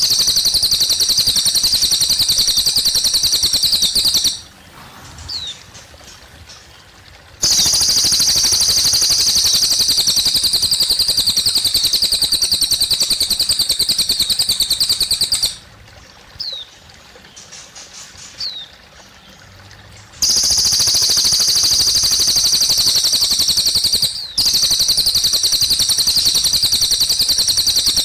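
A cililin bird singing long, loud, fast trills high in pitch, several seconds at a time, three times. Between the trills there are quieter pauses with a few short falling chirps over a faint trickle of water.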